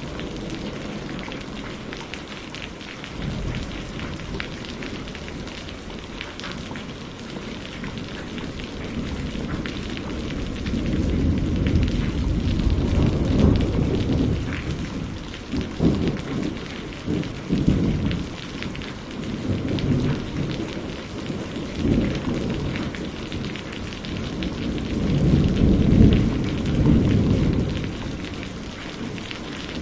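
Steady rain with many small drops pattering, joined from about ten seconds in by low rolling rumbles of thunder that swell and fade several times, the loudest near the end.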